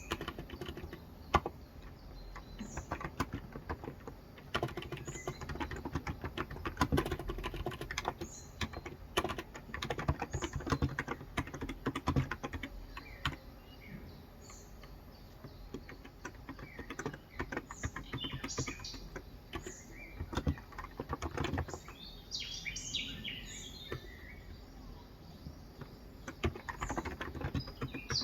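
Steady typing on a Cox Endeavor electro-capacitive (Topre-style) 35 g tenkeyless keyboard: a dense run of soft keystrokes. Birds chirp in the background, mostly in the second half.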